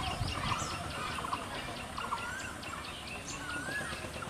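Birds calling over a low outdoor rumble: many short chirps and a few rising-then-falling calls, one about every second or so.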